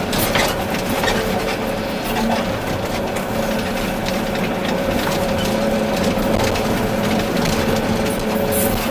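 Volvo EC380D excavator's diesel engine running steadily under work, a constant hum with scattered short knocks and clatters over it.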